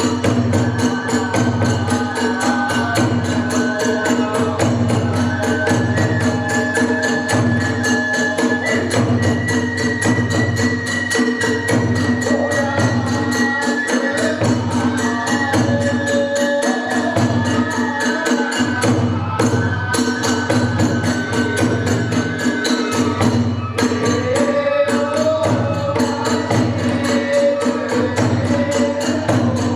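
Kagura festival music: a taiko drum beats a steady rhythm under rapid clashing of small hand cymbals, while a bamboo transverse flute plays a melody in long held notes.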